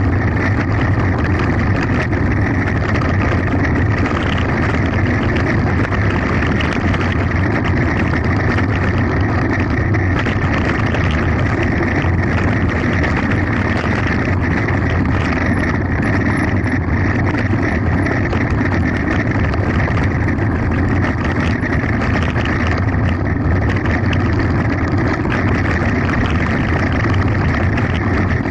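Mountain bike racing down a gravel forest road, giving a steady, loud rush of tyre and wind noise.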